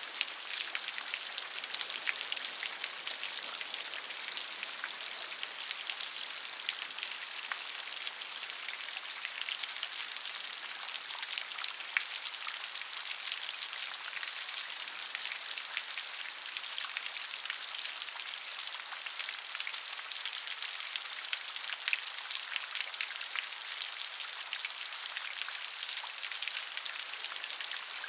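Steady rain, a dense patter of many close drops falling on a surface.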